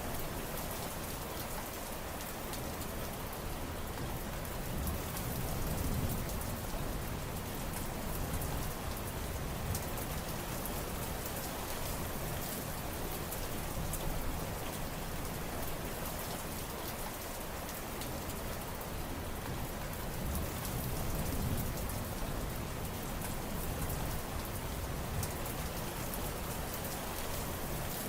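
Steady rain falling: a dense, even hiss with scattered sharper ticks of individual drops.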